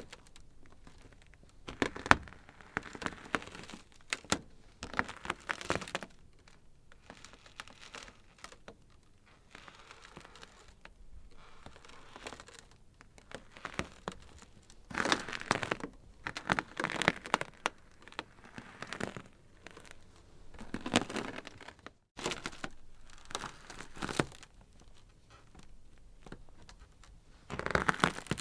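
Ice crackling close up: irregular clusters of small sharp cracks and snaps, with louder flurries now and then between quieter stretches.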